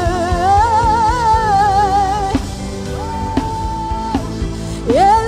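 Live worship band music: a singer holding long wavering notes over drums and bass. The voice then holds one steady note and slides up near the end.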